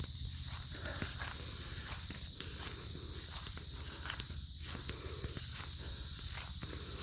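Footsteps walking over grass and ground, with insects trilling steadily.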